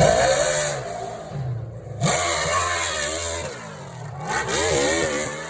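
Hill-climb motorcycle engine revving hard on a run up the slope, the revs rising and falling several times as it surges and eases off.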